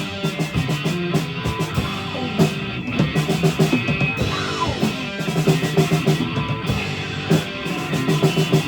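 Live rock band playing an instrumental passage: electric guitar with a drum kit keeping a steady beat.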